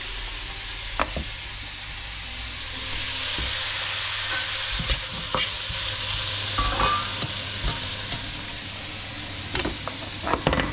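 Food sizzling in a hot pan while being stirred, with a steady frying hiss. Scattered clicks and knocks of a utensil against the pan sit on top of it.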